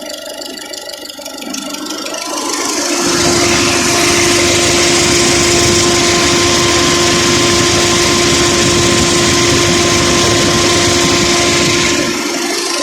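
Electric radiator cooling fan switching on about two seconds in over the idling engine, rising within a second to a loud, steady whir of rushing air with a constant motor hum, then cutting off near the end.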